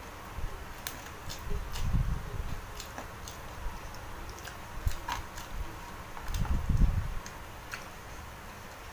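Close-miked eating sounds from a man eating by hand: scattered sharp mouth and chewing clicks, with low thuds about two seconds in and again near seven seconds in.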